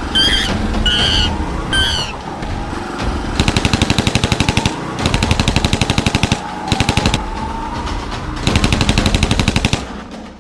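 Three short, high, squeaky calls, each falling in pitch, followed by four bursts of very rapid, evenly spaced rattling pulses, like machine-gun fire, over a steady low rumble.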